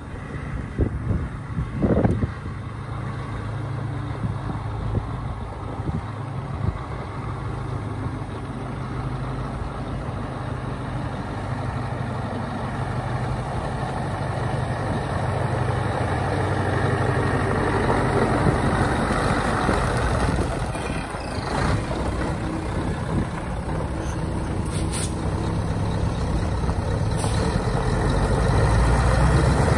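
Scania 450 truck's six-cylinder diesel engine running steadily, growing a little louder toward the end, with two short hisses near the end.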